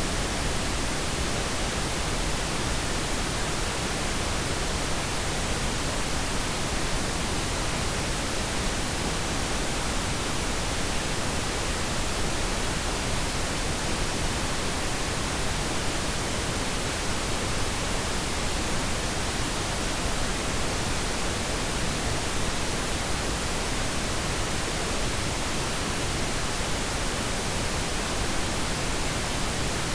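Steady pink noise: an even, unchanging hiss spread across all pitches, without breaks or events.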